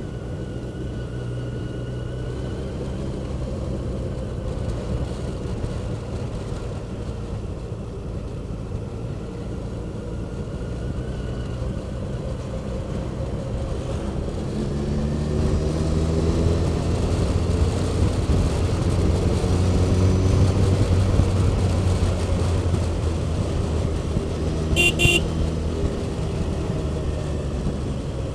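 Motor vehicle running on the road with steady engine and road noise; an engine note rises in pitch and grows louder around the middle. About 25 seconds in, a vehicle horn gives two quick beeps.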